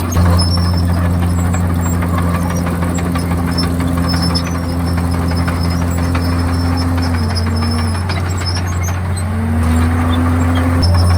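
Komatsu D51PX crawler bulldozer's diesel engine running steadily under work. Its pitch sags for about two seconds two-thirds of the way in, then climbs back up.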